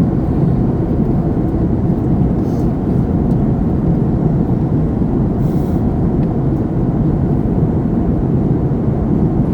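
Steady low rumble of an airliner's engines and airflow heard inside the passenger cabin, with two faint brief hisses partway through.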